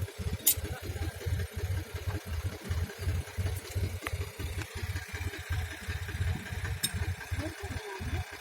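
A tractor's diesel engine running, with an uneven low chugging, while vehicles struggle in mud. Two short sharp clicks are heard, about half a second in and near the end.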